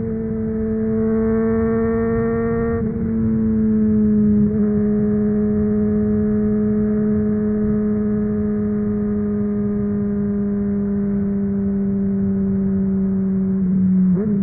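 Honda CBR600RR's inline-four engine through a MIVV Suono aftermarket exhaust, running under way at a steady note whose pitch drifts slowly down. The note changes briefly about three seconds in, and the pitch wavers with quick throttle changes near the end.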